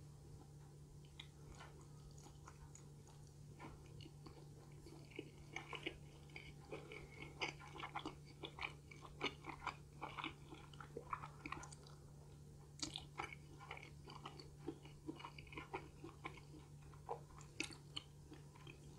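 A person chewing pizza: faint, wet chewing clicks and crackles, sparse at first and coming quickly from about four seconds in.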